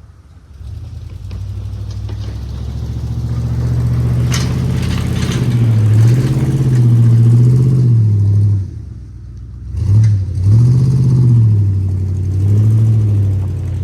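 Plow truck engine revving up and down, its pitch rising and falling several times. It drops away briefly about nine seconds in, then revs up again.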